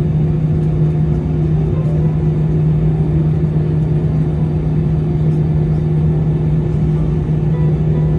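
Airbus A319 cabin noise in flight: a steady drone of the engines and airflow, with a strong low hum running through it.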